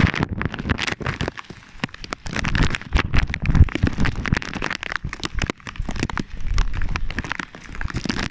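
Heavy rain striking a plastic bag wrapped round a phone: a dense, irregular patter of sharp taps and clicks with low thuds.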